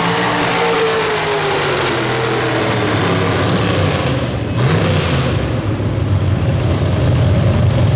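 Pulling truck's engine running loud, its pitch sinking over the first few seconds. About four and a half seconds in, a high hiss drops away suddenly; the engine then revs up briefly and runs on steadily.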